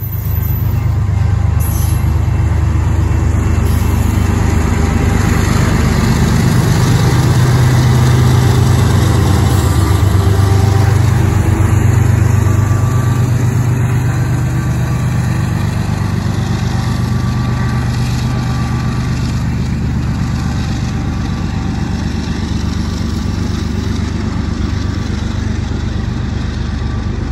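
Freight train of loaded covered hopper cars rolling past on the rails with a steady rumble, with the low hum of a Union Pacific diesel locomotive's engine swelling as it goes by, loudest near the middle.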